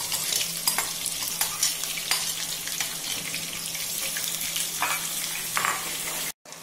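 Chopped onions sizzling in hot ghee in a pan with cashews, whole spices and green chilies: a steady frying hiss with scattered sharp crackles. The sound cuts out briefly just before the end.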